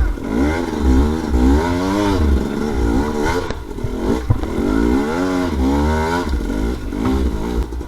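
Dirt bike engine revving, its pitch rising and falling over and over as the throttle is opened and closed, with a low rumble underneath.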